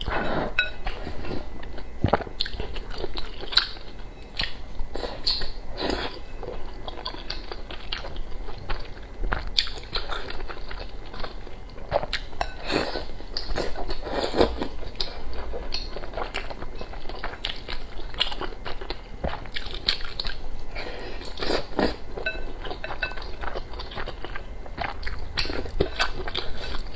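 Close-miked eating: a person biting and chewing food, with irregular crunches and mouth clicks throughout.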